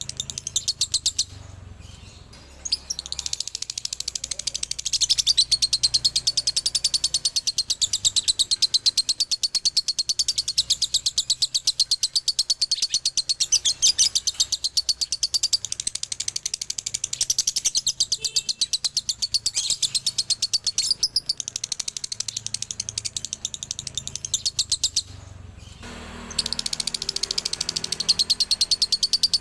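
Male lovebird singing a long, rapid, high-pitched chattering trill (the 'ngekek' or 'dobelan' song), a fast unbroken string of chirps that stops briefly about a second in and again a few seconds before the end.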